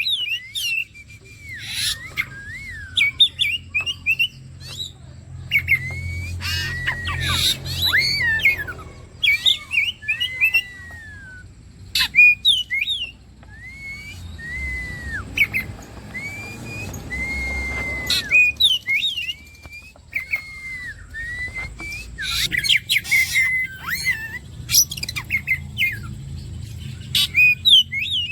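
Oriental magpie-robin (kacer) singing a varied run of whistled phrases, with slurred rising and falling notes and sharp chattering clicks between short pauses.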